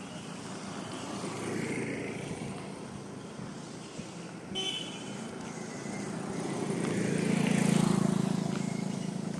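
A motor vehicle passing on the road, its engine and tyre noise building to its loudest about three-quarters of the way through and then fading.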